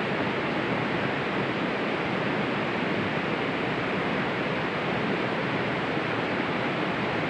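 Steady, even rushing noise of wind and rain, with no separate knocks or clicks.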